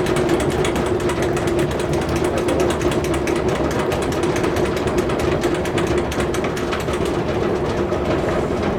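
Snare drum roll held steadily at an even level, a sustained rapid roll of tightly spaced strokes with a ringing drum tone beneath: a suspense roll while the new officer is being picked.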